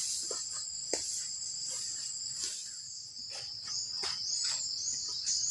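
Forest crickets and other insects keep up a steady high chorus. Short soft knocks come every second or so, footsteps along the trail. About halfway in, a short arched chirp starts repeating about twice a second.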